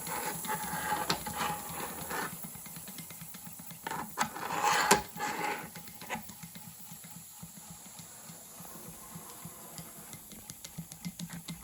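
Single-cylinder double-acting model steam engine running fast, a rapid fine ticking of its exhaust beats and moving parts, with two bursts of hissing in the first half.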